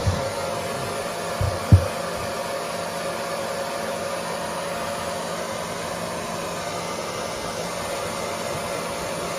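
Hair dryer blowing steadily with a constant motor hum, with a couple of low bumps about a second and a half in.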